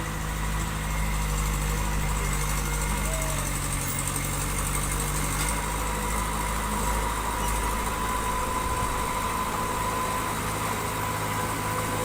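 Diesel engine of heavy construction machinery running steadily at low revs, with a thin steady high whine over it.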